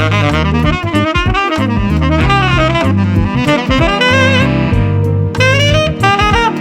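Conn 10M tenor saxophone improvising a funky jazz line, fast runs mixed with a few held notes, over a soul play-along backing track with electric bass and drums.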